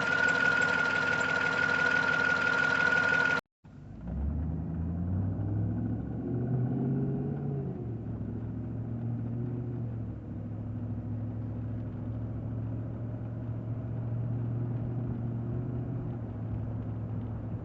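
2009 Cadillac Escalade's V8 engine running at idle: a steady high whine sits over it for the first three seconds, then after a short break the engine revs up briefly around six seconds in and drops back to a steady idle. The owner suspects the rough running comes from a misfire on a rear cylinder whose old spark plug or coil he has not replaced.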